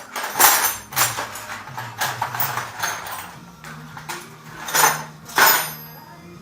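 Metal clanks and knocks from tools and parts being handled on a bicycle under repair, several separate strikes a second or more apart, the loudest two near the end.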